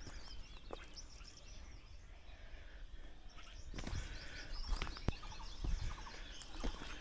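Several wild birds chirping and calling in forest, with a few short sharp knocks or crunches near the middle and a low rumble underneath.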